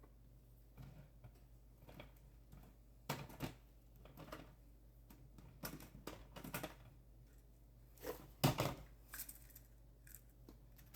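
Scattered light knocks and clatters of kitchen utensils and dishes being handled, loudest about eight and a half seconds in.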